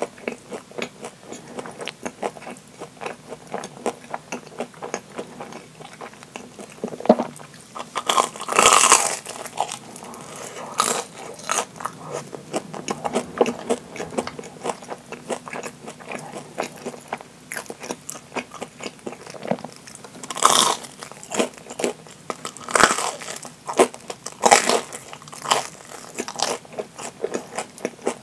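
Chewing a deep-fried, breadcrumb-coated Japanese curry bread: a steady stream of small crisp crunches from the fried crust, with several louder crunches scattered through.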